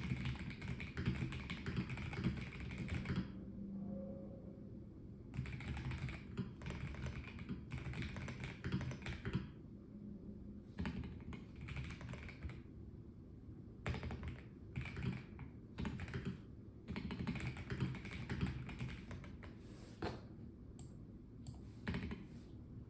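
Typing on a Melgeek Mojo84 mechanical keyboard with a plastic case: runs of rapid key clicks broken by short pauses of a second or two.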